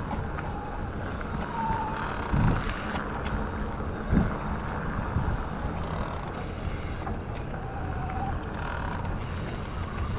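Wind rushing over an action camera's microphone while riding an e-bike, with the bike rattling over the trail and two louder knocks a couple of seconds apart.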